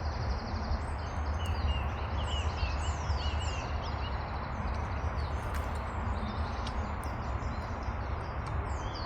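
Wild birds singing, with many quick high notes sliding downward again and again and a brief run of lower warbling chirps, over a steady low rumble.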